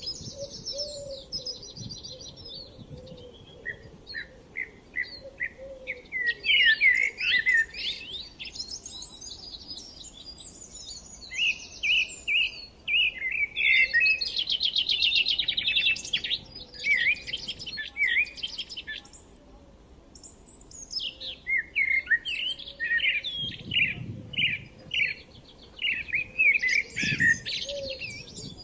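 Several small songbirds chirping and singing in a forest, with quick repeated chirps and fast trills that overlap, and a short lull about two-thirds of the way through.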